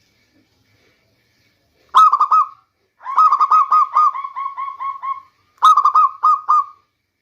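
Local zebra dove (perkutut) cooing in short staccato phrases. A brief phrase about two seconds in is followed by a long run of quick, even coo notes, then a short three-note phrase near the end.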